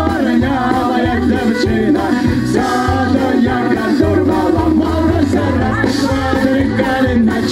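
Amplified live folk-song performance: voices singing over a backing with a steady bass beat.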